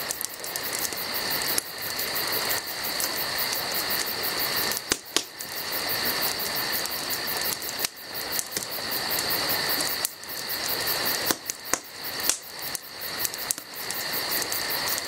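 Insects chirping in a steady chorus, with a rapid fine trill over a constant hiss and a few sharp clicks.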